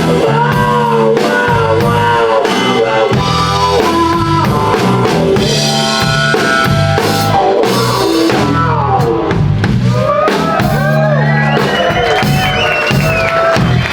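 Live band music with a drum kit keeping a steady beat under low bass notes. A melodic lead line bends and glides in pitch, most strongly in the second half.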